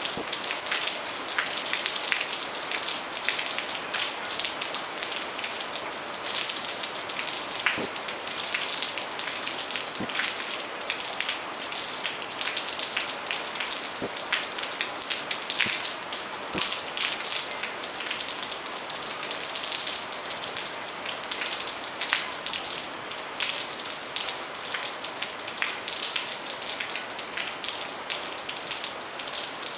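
Steady rain with a constant hiss, dotted throughout with sharp taps of single drops landing close by.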